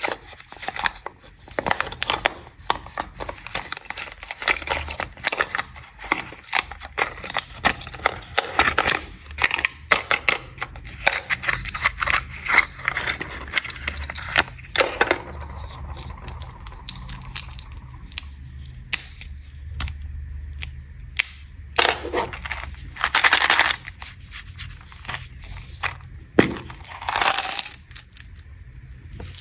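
Plastic snack wrappers crinkling and tearing as snacks are unwrapped: dense rapid crackling for about the first half, then separate short rustles.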